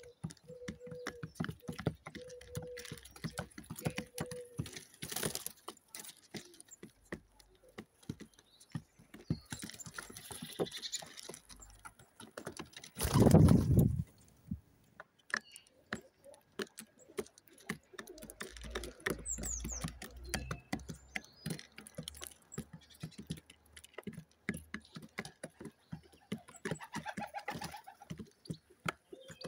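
A flock of pigeons pecking at scattered food, a dense run of quick irregular taps. A few short low coos come in the first seconds, and a loud rushing burst of about a second comes about halfway.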